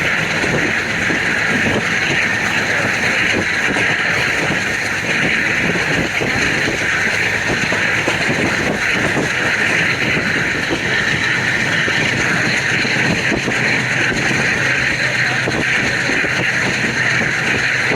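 Passenger train running under way: a steady rush of wind and running noise, broken by irregular rail clicks and clatter.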